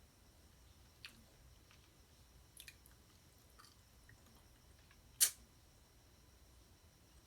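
Sparse wet mouth clicks and smacks from someone eating: a faint one about a second in, a quick little cluster about two and a half seconds in, and one sharp, much louder click about five seconds in.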